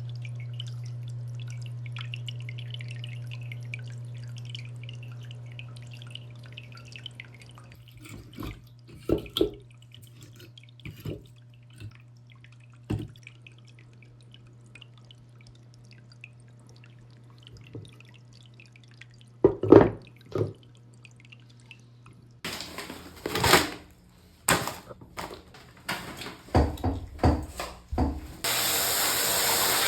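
An aquarium filter hums steadily with water trickling. This gives way to scattered sharp knocks and taps of driftwood and stones being handled, which become a denser clatter later on. Near the end a loud steady rushing noise starts.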